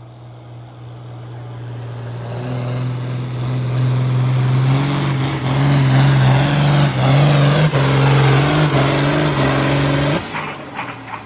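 A pulling tractor's diesel engine running hard under full load on a tractor-pull run, growing louder over several seconds. It cuts off suddenly about ten seconds in as the run ends, leaving a falling whine.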